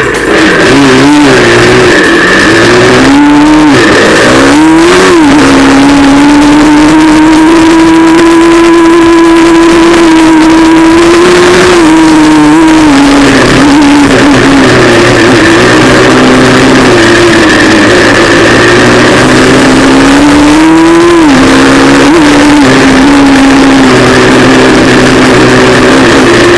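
Pit bike's 160cc YX single-cylinder four-stroke engine, very loud, revving up quickly through the gears, then held at steady high revs, with the pitch dropping and climbing again as the throttle is eased and reopened.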